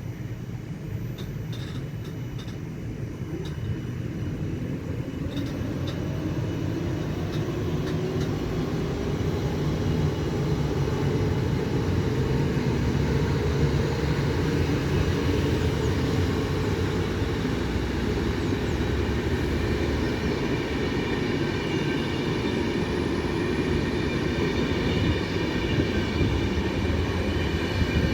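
Locomotive-hauled passenger train running through, a rumbling noise that grows louder over the first ten seconds or so and then holds, with a few sharp clicks early on and steady high whining tones later.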